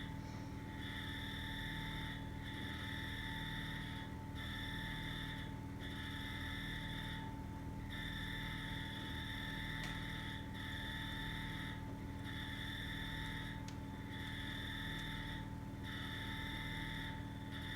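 An animal's trilling call repeating over and over, each call about a second or so long with short gaps between, over a steady low rumble and hum, with a couple of faint pops from the campfire.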